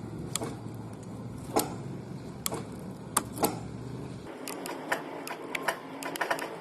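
Scattered sharp clicks and taps of hands pressing a car's blown fuse down and squeezing it together to reconnect the circuit; the clicks come closer together near the end. A low background hum cuts off about four seconds in.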